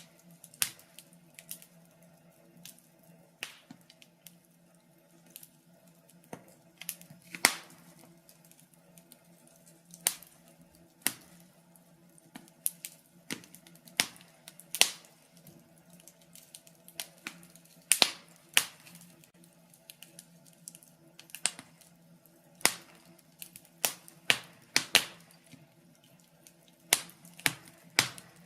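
Wood fire in a fireplace crackling: irregular sharp pops and snaps, roughly one or two a second, some much louder than others, over a faint steady hum.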